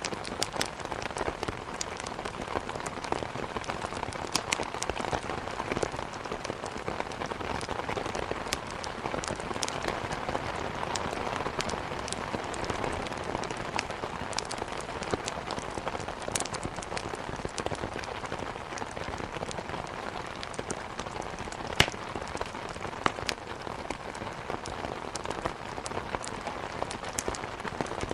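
Steady rain together with a wood fire crackling, with sharp pops scattered irregularly throughout; the loudest single pop comes about twenty-two seconds in.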